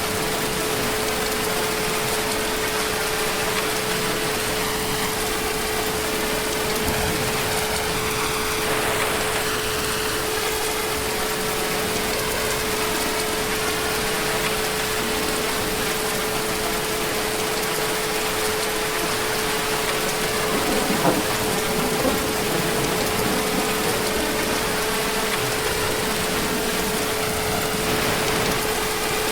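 Heavy rain falling steadily as an even, unbroken hiss, with a steady humming tone underneath.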